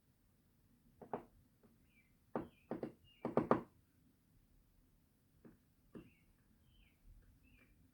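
Woodpecker pecking at wood in irregular sharp knocks, several coming close together a little after three seconds in. Short high chirps come in between the knocks.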